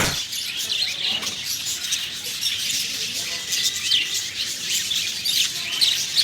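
Many small birds chirping and twittering together, a busy overlapping chorus of short, high calls.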